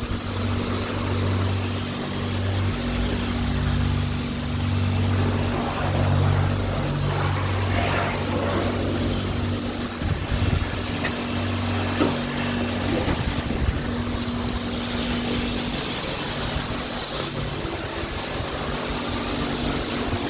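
Toyota C-HR hybrid's petrol engine idling steadily after an engine-bay wash, with a few light clicks or knocks about halfway through.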